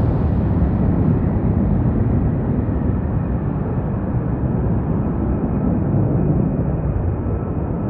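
Military fighter jet engine noise after takeoff: a loud, deep roar whose hiss fades as the jet climbs away, leaving a low rumble.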